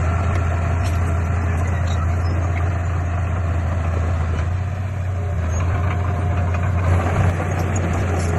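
Heavy earthmoving machine's diesel engine running steadily with a deep low drone, with two brief louder bumps about seven seconds in.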